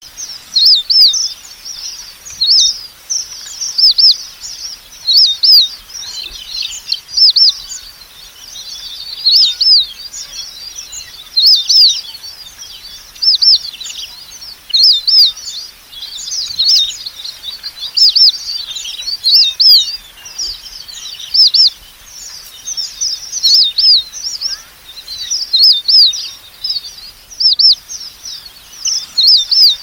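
Red avadavats (red munias) calling: short, high, thin chirping notes, each bending in pitch, given in quick clusters about every second or two.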